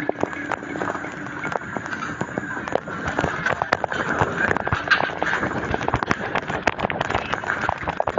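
Rapid, irregular rattling clicks and knocks over steady road noise, from a phone filming on a moving bicycle.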